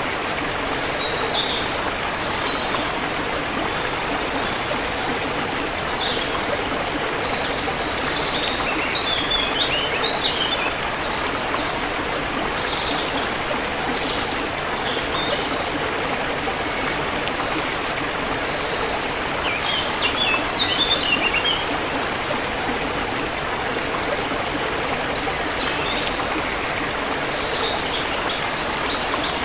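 A forest river flowing steadily, with small birds chirping in short bursts of high notes every few seconds.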